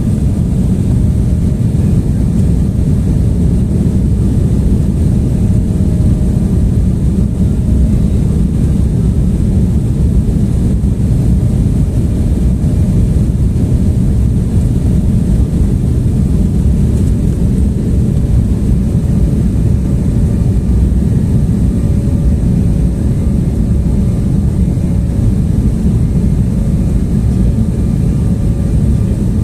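Airliner cabin noise on a landing approach: a steady, loud low roar of jet engines and airflow, with a faint steady hum above it.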